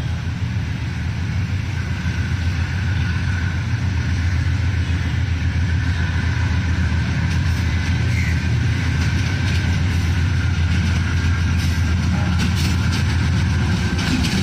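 Diesel locomotive engine running with a steady low hum, slowly growing louder.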